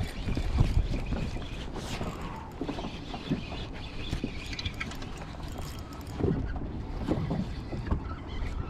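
Wind buffeting the microphone in uneven low rumbling gusts, with scattered light knocks from the small plastic boat and fishing gear.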